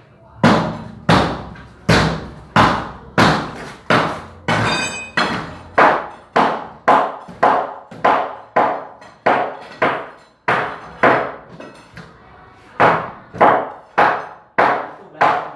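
Steady series of hammer blows, about one and a half to two a second, each a sharp knock. One blow a few seconds in rings with a metallic tone.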